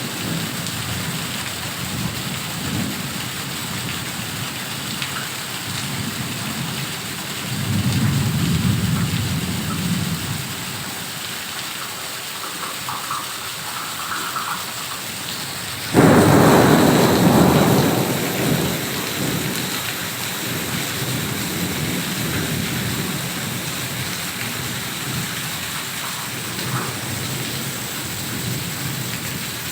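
Heavy rain falling steadily, with a low roll of thunder about a quarter of the way through. A sudden loud thunderclap comes just past halfway and rumbles away over a few seconds.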